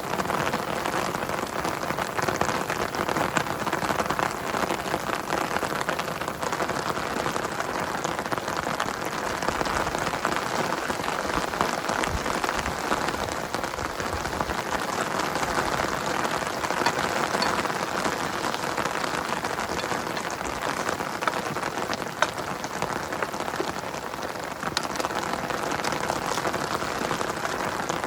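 Steady rain falling, a dense even hiss with many individual drops striking sharply throughout.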